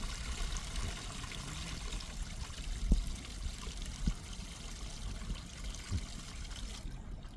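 Water trickling and running steadily, with a few dull knocks; the loudest knock comes about three seconds in. The water sound cuts off suddenly just before the end.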